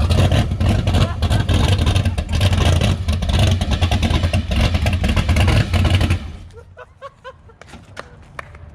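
Fox-body Mustang's swapped V8 running loud and rough, with a strong low rumble, until the sound drops away suddenly about six seconds in.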